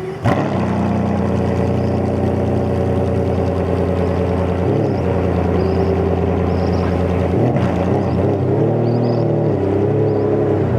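Ferrari Enzo's 6.0-litre F140 V12 firing up with a sharp crack right at the start, then settling into a loud, steady idle. The idle pitch wavers and shifts a couple of times.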